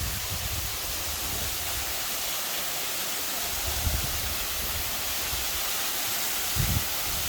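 Waterfall: a steady, even rush of falling water, with two brief low thumps on the microphone, about four seconds in and near the end.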